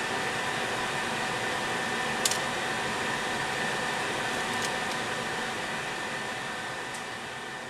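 Microwave oven running with a steady hum while a dual-layer DVD inside arcs. There is one sharp snap about two seconds in and fainter ticks later, and the sound fades out near the end.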